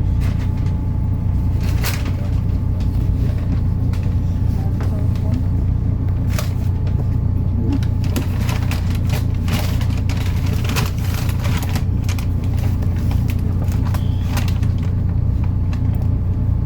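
MAN Lion's City NL293 city bus, its straight-six diesel engine running with a steady low drone heard from inside the bus, with light interior rattles and clicks coming and going, most of them in the middle.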